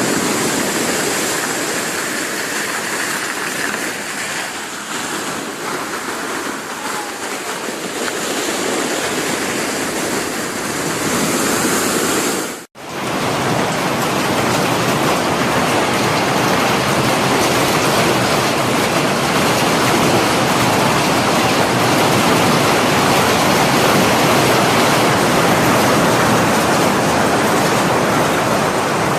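Continuous rushing of a rough, stormy sea: waves breaking and churning water. The sound drops out abruptly for a moment about 13 seconds in, then comes back denser and a little louder.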